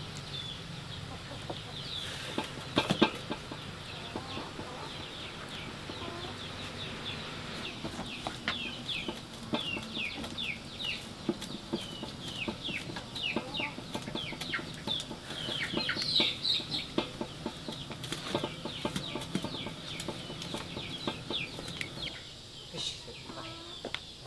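Chickens in a farmyard, with a long run of quick high peeps that each drop in pitch, over a steady background. There are a few sharp knocks about two to three seconds in.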